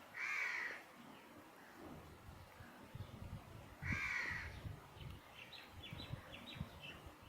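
Two harsh, caw-like bird calls about four seconds apart, then a quick run of short high chirps near the end, over soft low knocks and rustling.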